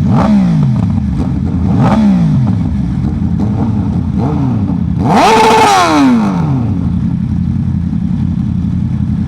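Sport motorcycle engine under way, its revs dropping sharply several times as it shifts, then one louder rev rising and falling about five seconds in, over a steady low rumble of wind and road.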